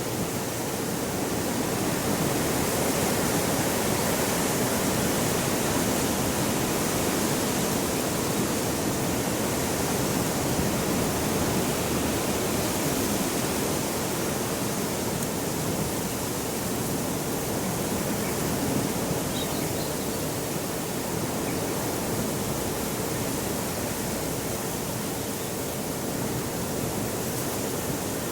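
Heavy wind rushing steadily, swelling and easing slightly, with a faint steady hum underneath.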